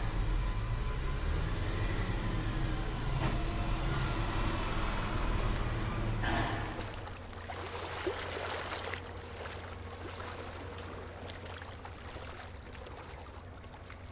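A vehicle in motion: a steady low rumble that drops in level about seven seconds in, leaving a quieter hum.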